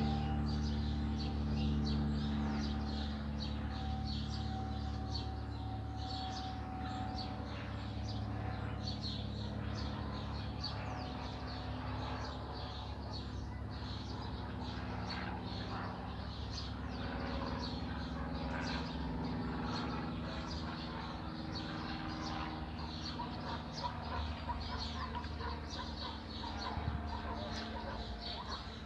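Cessna 182 Skylane's piston engine and propeller droning steadily, strongest in the first few seconds and then fading as the plane departs. Many small birds chirp throughout, more noticeable toward the end.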